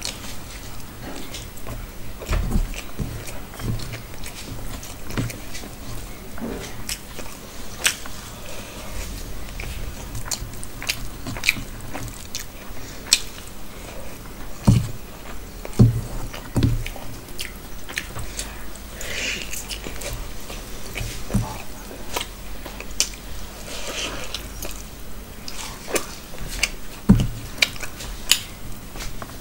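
Close-miked chewing of mouthfuls of rice mixed with curry, full of wet mouth clicks and smacks, with a few soft low thumps.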